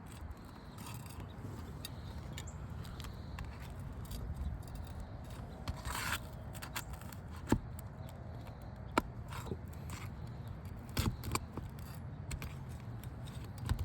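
Flat bar prying and scraping under asphalt roof shingles to pull nails and break the seals, with scattered short clicks and scrapes over a low steady rumble.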